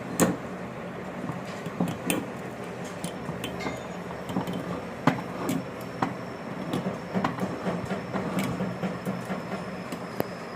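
Irregular clinks and taps of metal parts or tools being handled, over a steady low hum.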